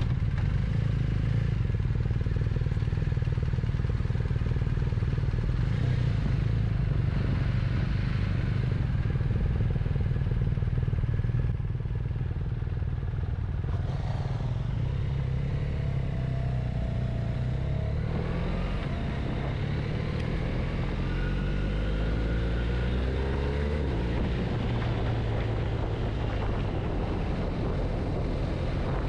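Motorcycle engine running under way, steady at first, then revving up in several rising climbs about two-thirds of the way through.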